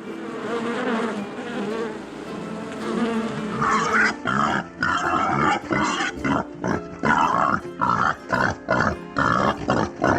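Farm animal calls: a noisy, rough stretch at first, then from about four seconds in a rapid series of short calls, two or three a second.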